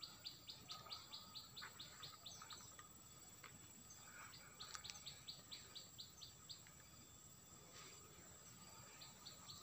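A small bird calling faintly in a rapid run of short, high, evenly spaced notes, about five or six a second, given twice with a pause of about two seconds between.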